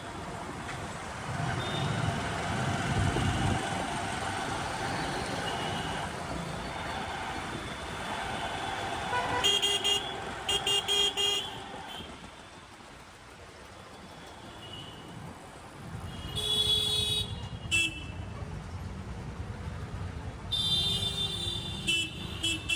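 Road traffic with vehicle horns honking: a steady rumble of engines, broken by groups of short, repeated toots about halfway through, again later and near the end.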